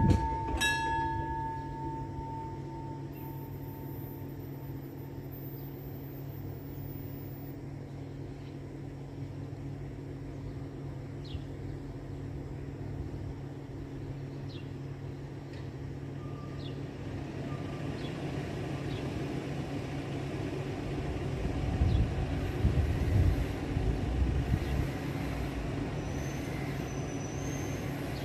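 A level-crossing bell rings a last strike about a second in. Then a steady low rumble of a train runs under faint traffic noise, growing louder in the last third as a car approaches.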